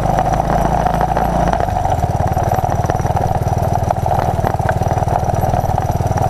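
1981 Honda XL185's single-cylinder four-stroke engine running steadily, with an even run of firing pulses; its note changes about one and a half seconds in.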